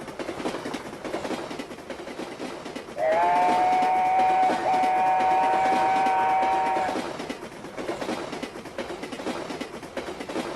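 A train running with a steady rumbling clatter, and its horn sounding one long blast of about four seconds, starting about three seconds in.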